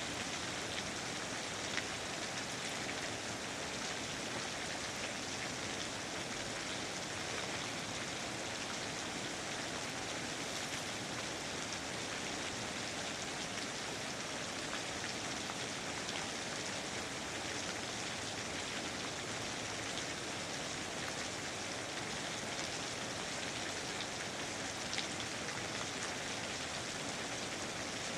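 Steady rain falling, an even hiss of many drops with scattered individual drop taps, two of them a little louder.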